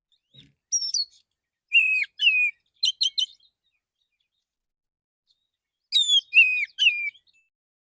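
Male oriental magpie-robin singing a relaxed lure song: short phrases of sliding, whistled notes. Two phrases come in the first second or so, then a quick run of sharp notes about three seconds in, then a pause of over two seconds and one more phrase near the end.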